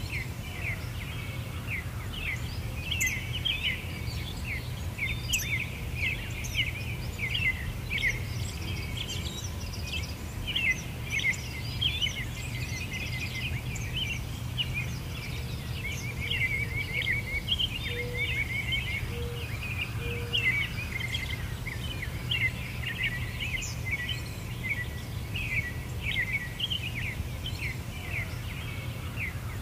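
Many small birds chirping and twittering, a dense run of quick, high calls that never stops, over a steady low background rumble. A few softer, lower notes come in briefly near the middle.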